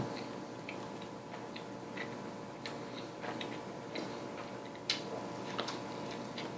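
Irregular small mouth clicks and smacks of a person chewing a big mouthful of burger, a sharper click about five seconds in, over a faint steady hum.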